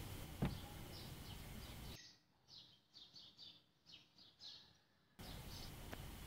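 Small birds chirping faintly in the background: a steady run of short, high chirps, several a second. A single click about half a second in.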